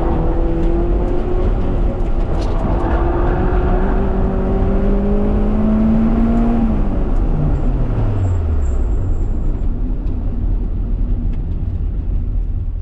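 Honda Prelude's H22 engine pulling under load, its pitch rising steadily for about six seconds. Then the revs drop away quickly, and the engine runs on under a heavy low rumble.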